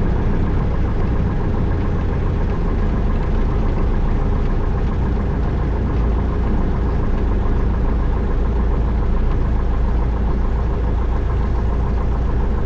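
1972 Cessna Skyhawk's four-cylinder Lycoming engine running steadily at low taxi power, a loud, even drone heard from inside the cabin.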